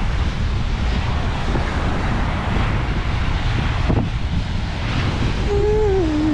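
Wind buffeting the microphone over the steady wash of ocean surf. A voice wavers briefly near the end.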